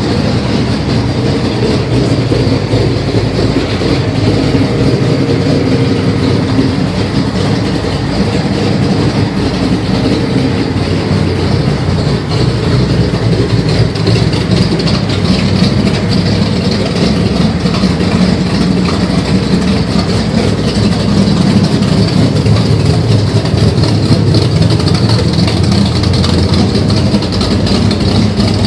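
Ford Fairlane drag car's engine running steadily and loudly, with no revving.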